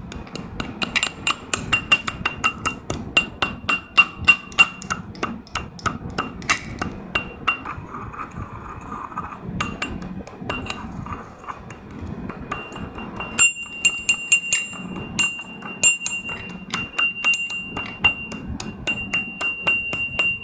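Slate pencils being crushed: a fast, irregular run of sharp crunches and snaps. The crunching thins out for a stretch about two thirds of the way in, then picks up again.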